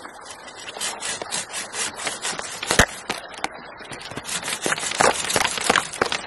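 A hand saw cutting through a wooden log with quick, even back-and-forth strokes, about three a second, with a sharp knock about three seconds in.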